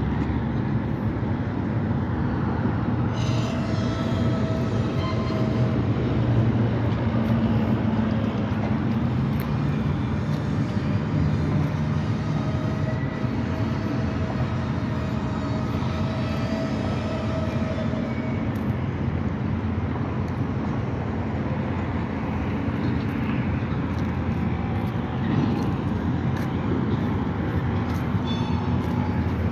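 Norfolk Southern freight train rolling past, its diesel locomotives running with a steady low rumble, then freight cars rolling by.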